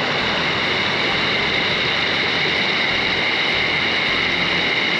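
Steady rush of river water over rocks, even and unbroken.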